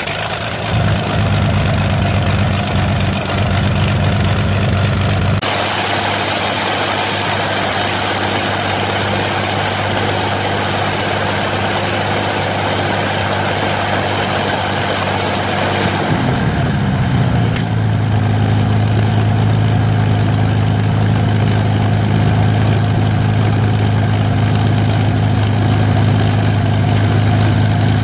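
Rolls-Royce Merlin V12 engine running steadily, with an abrupt change in tone about five seconds in; around sixteen seconds in the revs fall and it settles into a steady idle.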